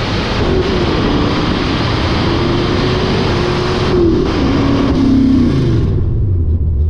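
Small-block Ford V8 of a manual-shift Ford Fairmont station wagon at full throttle on a drag-strip pass. The engine pitch climbs and drops back at each gear change, about half a second in and again around four and five and a half seconds. Near the end the engine backs off to a low, steady rumble.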